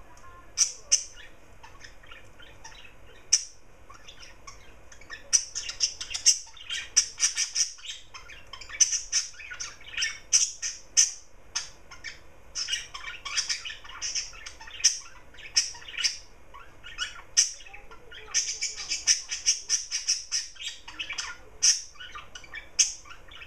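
Garden birds calling: many short, sharp, high-pitched calls and squawks, overlapping in quick runs with brief gaps between them.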